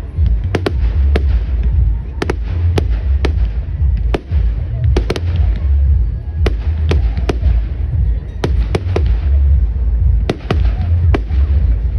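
Fireworks going off: a run of sharp bangs and cracks at irregular intervals, up to two or three a second, over a steady low rumble.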